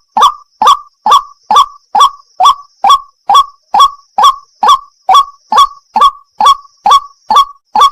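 White-breasted waterhen (burung wak-wak) calls: a short, loud, honking 'wak' note repeated in an unvarying rhythm of about two calls a second, each note falling in pitch at its end.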